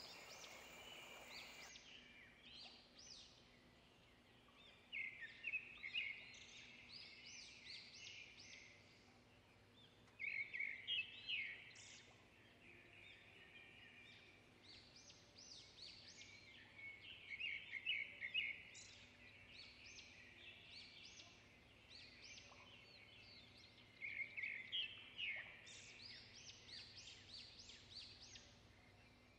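A bird calling in quick, high-pitched chattering phrases that come about five times, each lasting a second or two, over a faint steady background hum.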